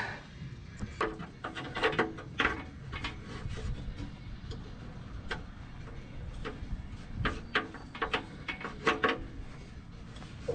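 Irregular clicks and light clanks of exhaust parts and tools being handled and fitted, in small clusters, some with a short ring, over a low steady background hum.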